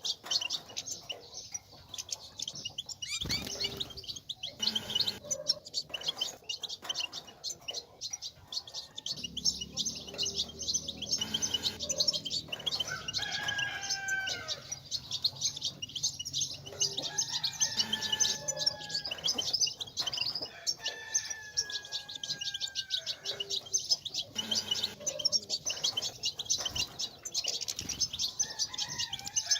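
European goldfinches twittering and chirping in a fast, unbroken stream of high notes. A few lower, drawn-out falling calls come in around the middle and again near the end.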